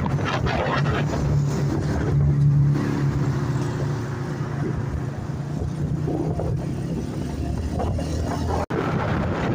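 Motorcycle engine running at a steady pace while riding, with wind rushing over the microphone. The sound drops out for an instant near the end.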